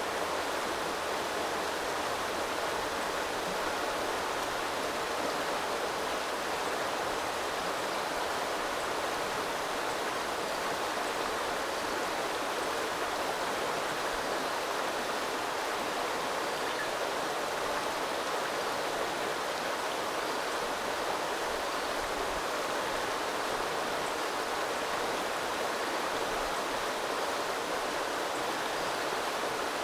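Small river running over stones: a steady rush of flowing water that does not change.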